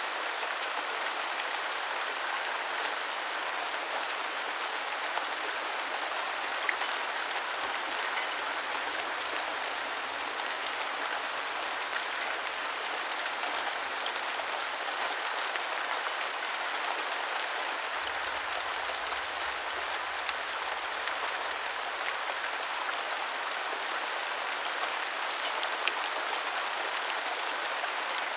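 Steady rain falling on a surface, a continuous hiss dotted with the small ticks of individual drops.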